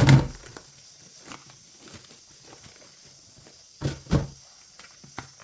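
Dull thumps: a loud one at the start and two more close together about four seconds in, with faint light knocks between.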